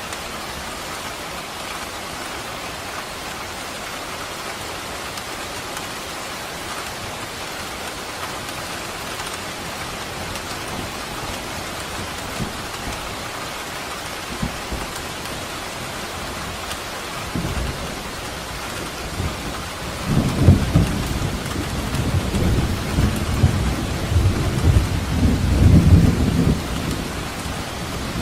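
Steady rain falling, with a long roll of thunder rumbling in from about two-thirds of the way through and fading near the end.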